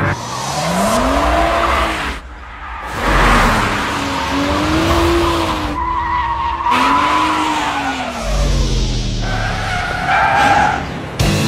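BMW coupé's engine revving up and falling back several times with tyres squealing through hard cornering, cut together in quick passes.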